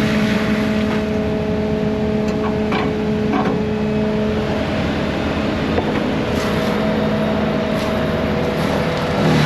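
Heavy diesel machinery running steadily, with a constant engine drone and a few short knocks or cracks scattered through.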